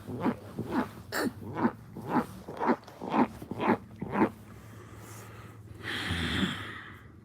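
A man making repeated short, wordless vocal noises, about two a second for four seconds, then a breathy rush of air about six seconds in.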